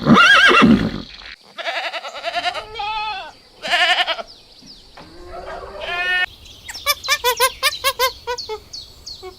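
Farm animals calling: a string of loud, wavering bleats, then from about two-thirds of the way through a quick run of short, repeated calls.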